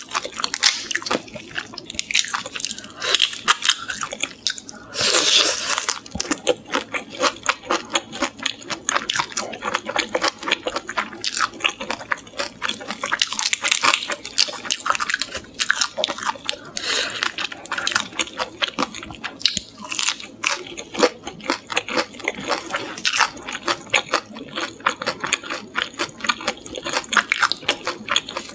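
Close-miked crunching and chewing of crispy butter-fried shrimp heads, a dense run of irregular crackling bites with a few louder crunches.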